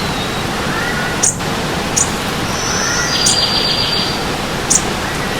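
Running stream water making a steady rush, with wild birds chirping over it: short high chirps about once a second and a buzzy trill in the middle.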